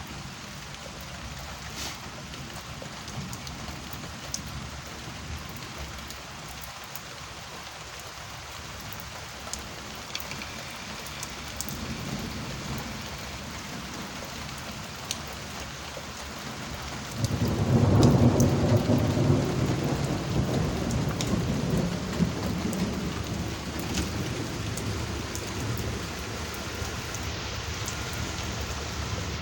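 Steady rain falling, with scattered drop ticks. A faint low rumble of thunder comes near the middle, then a loud peal of thunder breaks suddenly and rolls on, slowly fading over several seconds.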